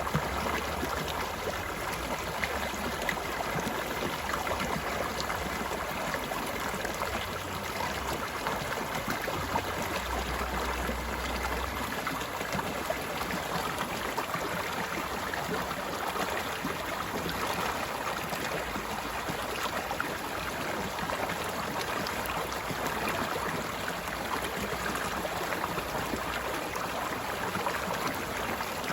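Flowing stream water, a steady babbling rush with small splashes.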